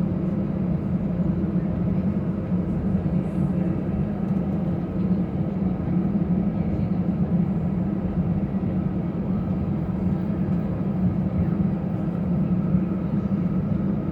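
Steady low drone and rumble inside the cabin of an Airbus A319-114, its CFM56 engines and airframe heard through the cabin walls, unchanging throughout.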